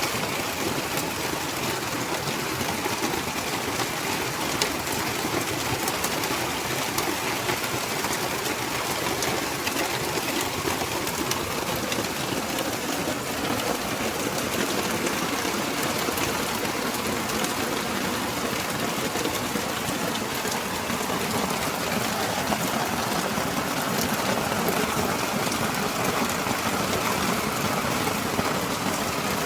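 Steady rain falling at night in a thunderstorm, an even hiss with a fine scatter of drops.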